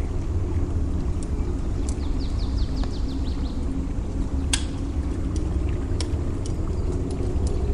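Campfire crackling, with scattered sharp pops (the loudest about halfway through), over a steady low rumble of surf. About two seconds in there is a quick run of high chirps.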